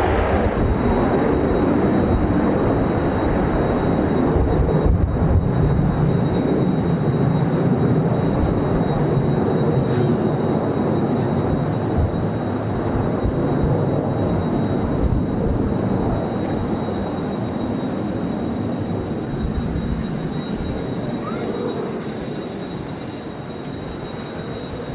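Jet aircraft engines giving a steady, loud rush that slowly fades over the last several seconds, with gusty wind buffeting the microphone.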